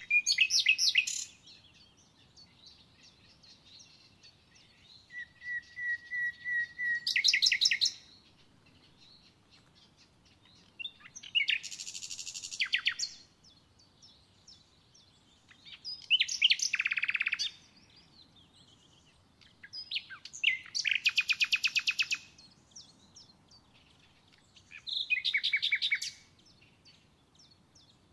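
A songbird singing six short phrases, each a quick run of high notes ending in a rapid trill, with pauses of a few seconds between them.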